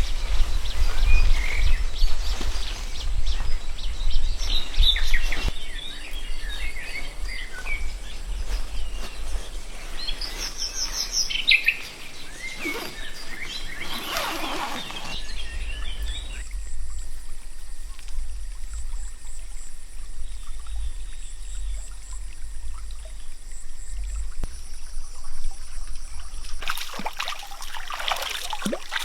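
Birds chirping and calling outdoors over a low rumble for the first half, then a quieter steady background with faint high thin tones. A run of sharp clicks starts near the end.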